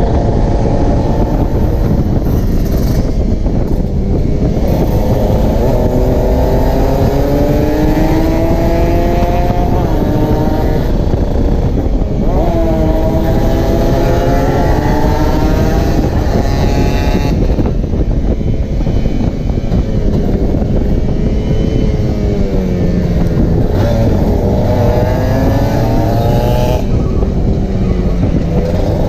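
Kawasaki Ninja 150 two-stroke motorcycle engine revving hard while riding at speed. Its pitch climbs and drops again and again as it pulls through the gears, over heavy wind rumble on the microphone.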